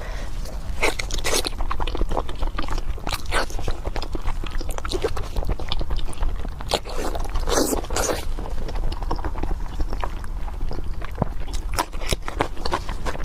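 Close-miked eating: a person biting, crunching and chewing pork, in irregular crackles and crunches, with a steady low hum underneath.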